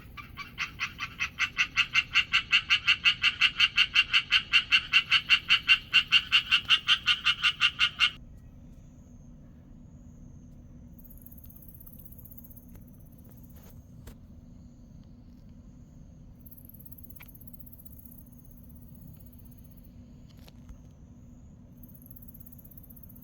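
Japanese tree frog calling: a fast, even run of short notes, about five a second, growing louder over the first two seconds and then stopping abruptly about eight seconds in. After that only a low steady hum remains, with a faint high hiss now and then.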